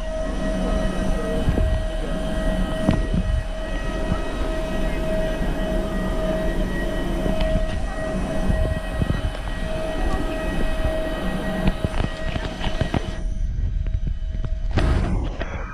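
Ride noise inside an airport apron shuttle bus: a steady drone and whine over a low rumble, with rattles and knocks. The whine and the hiss cut out suddenly about thirteen seconds in.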